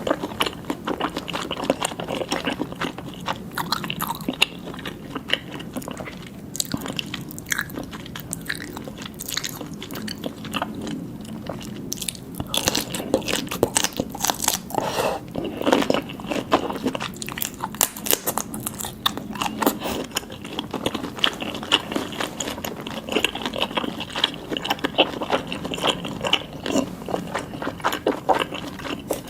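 A person chewing and biting seafood close to the microphone, with a steady run of short, wet clicks and smacks.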